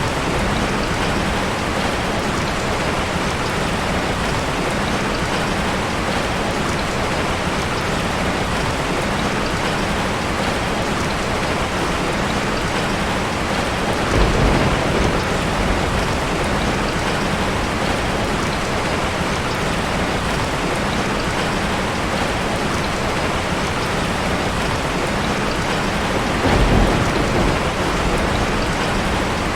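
Steady rain falling, an even hiss of drops. Two brief louder low swells rise out of it, about halfway through and again near the end.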